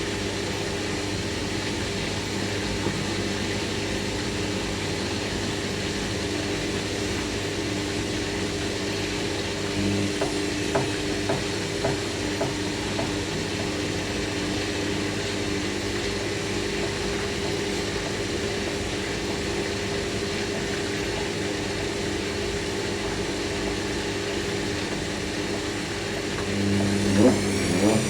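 Hoover NeXtra HNL3146 washing machine on its slow 800 rpm final spin: the motor and drum give a steady hum. Near the end the motor's pitch rises as it changes speed.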